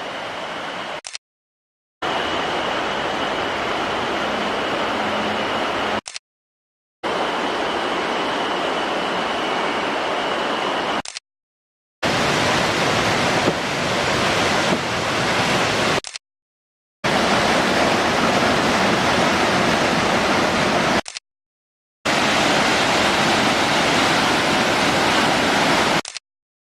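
Rushing water of a mountain stream, a steady roar of noise, heard in a string of short takes that each cut off abruptly into about a second of silence. A faint steady high tone sits over the water in the first few takes.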